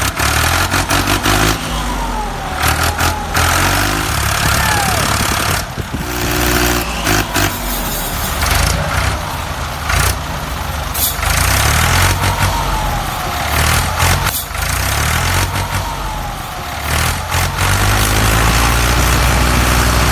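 Engine sound: a motor running and revving, changing in steps, with faint wavering whines and many sharp clicks and knocks.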